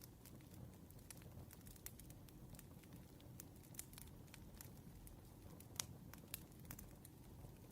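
Campfire crackling faintly: scattered sharp pops and snaps over a low rumble, with one louder pop near the end.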